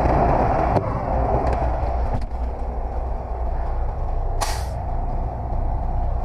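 Semi-truck diesel engine running at low speed, with a couple of knocks in the first two seconds and a short, loud burst of hissing air from the truck's air system about four and a half seconds in.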